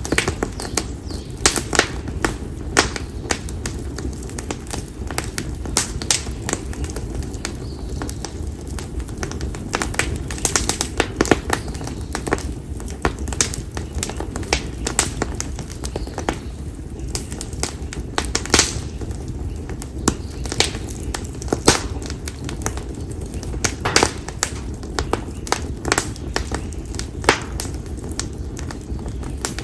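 Konara oak firewood burning in an open fire, crackling and popping with frequent irregular sharp snaps over a steady low rush of flame.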